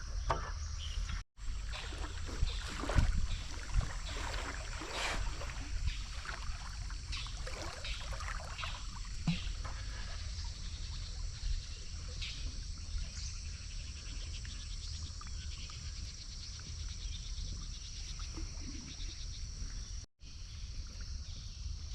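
Canoe paddle strokes dipping and splashing in river water, irregular and strongest in the first half, over a steady high insect drone.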